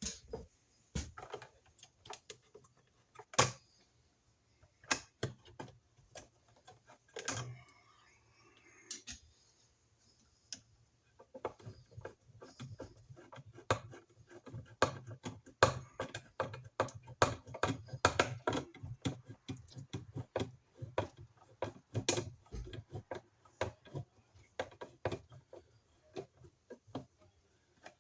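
Irregular clicks, taps and small knocks of hand work at an electrical box, as wires are folded in and an outlet is fitted. They come sparsely at first, then thick and fast from about eleven seconds in.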